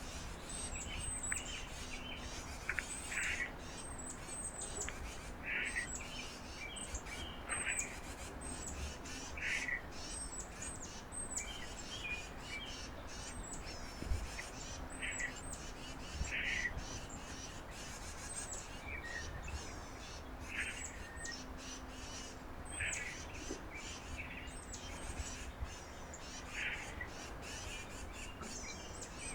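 Wild birds calling: a constant run of very high, thin chips, with a louder, lower call repeating about every two seconds.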